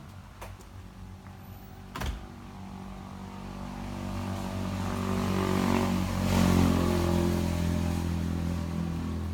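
A motor vehicle's engine running with a steady pitch, growing louder over several seconds and then easing slightly. There is one sharp knock shortly before it builds.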